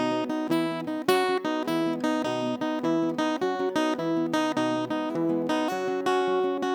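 Acoustic guitar strummed in a steady rhythm, chords ringing between strokes, as an instrumental passage of a song.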